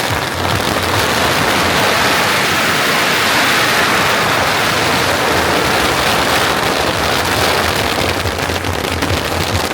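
A long string of firecrackers going off in a dense, unbroken crackle that holds steady for the whole stretch.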